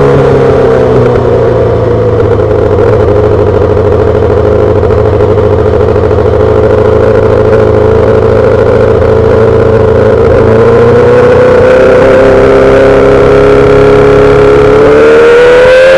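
2008 Yamaha R6 inline-four running through a full SC-Project exhaust, holding a steady engine speed. Over the last few seconds its pitch climbs gradually as it accelerates.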